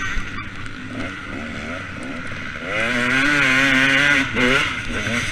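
KTM 250 SX two-stroke motocross bike engine revving, its pitch rising and falling with the throttle and growing louder about three seconds in.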